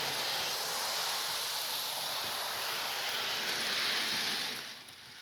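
Model steam locomotive running on its track: a steady hissing noise that drops away sharply shortly before the end.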